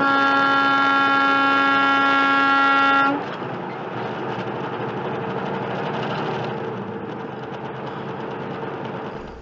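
A long, steady horn blast on one pitch that cuts off abruptly about three seconds in, followed by steady road and traffic noise.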